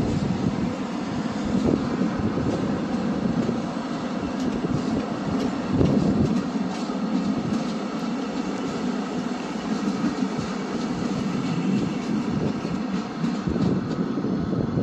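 Via Rail passenger train rolling past, a steady rumble of wheels on the rails with scattered clicks.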